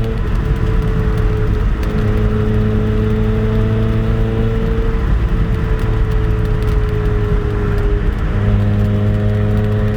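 Mazda Miata's 1.8-litre four-cylinder engine, fitted with an aftermarket header, Borla dual exhaust and MagnaFlow resonator, droning steadily at a constant cruise with the pitch easing slightly. The exhaust note swells louder from about eight seconds in. It is heard from inside the cabin with the windows open.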